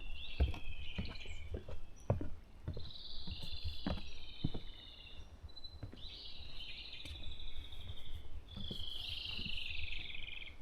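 A songbird singing four falling, trilled phrases of about two seconds each, separated by short pauses, with scattered faint clicks and knocks underneath.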